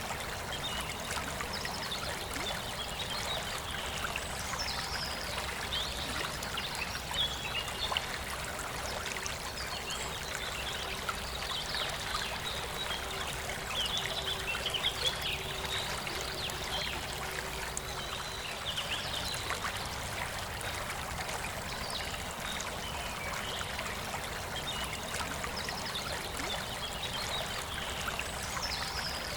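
A forest river flowing steadily, with birds chirping intermittently over the rush of water.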